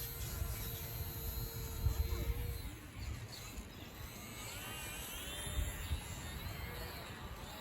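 Small electric RC airplane motor whining in the air, its pitch rising and falling, over a steady low rumble of wind on the microphone.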